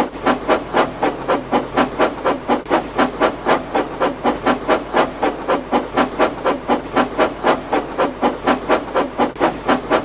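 Steam locomotive chuffing at a steady pace, an even beat of about four to five chuffs a second.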